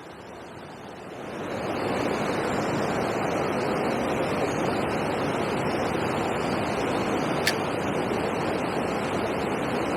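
Steady rushing noise that swells about a second and a half in and then holds evenly, with one faint click later on.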